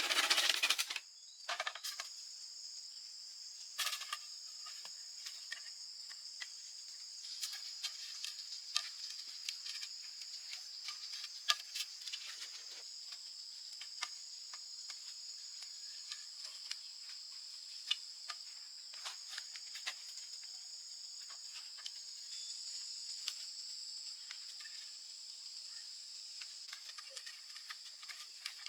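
Insects trilling steadily in two high bands, with scattered light clicks and rustles. A loud rush of noise cuts off about a second in.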